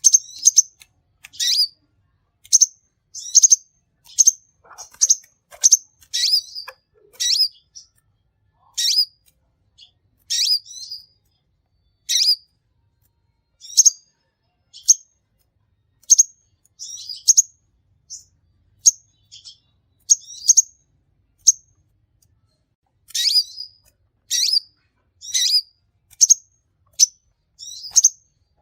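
A sunbird (the bird that Indonesian bird-keepers call 'kolibri ninja') calling persistently. It gives short, sharp, high-pitched chips and twittering notes in quick runs, about one burst a second, with brief pauses between them.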